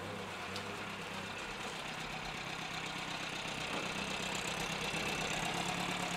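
Car engine idling steadily with a low hum, growing a little louder toward the end.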